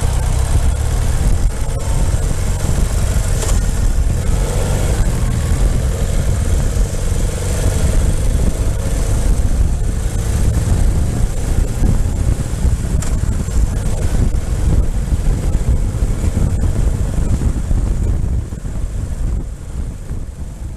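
Ural motorcycle's flat-twin engine running under way, with wind rushing across the microphone. The sound drops somewhat near the end.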